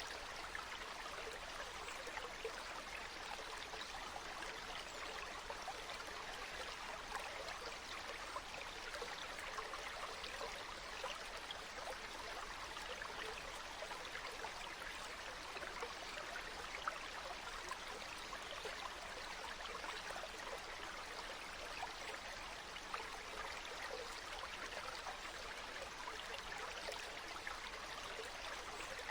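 Flowing water running steadily, with a constant fine splashing and no change throughout.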